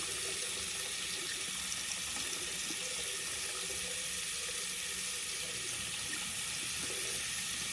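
Faucet running steadily into a sink, an even rushing hiss of water.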